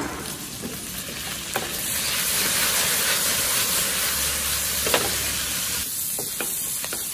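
Sliced spring bamboo shoots frying in hot oil in a wok, with dark soy sauce just added, stir-fried with a silicone spatula. The sizzle grows louder about two seconds in, with a couple of light knocks of the spatula against the pan.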